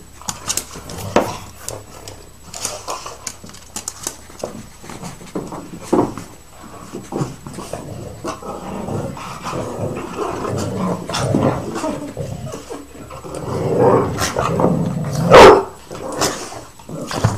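Dogs playing rough, with scattered short sharp sounds and stretches of rough vocalising, and one loud bark about fifteen seconds in.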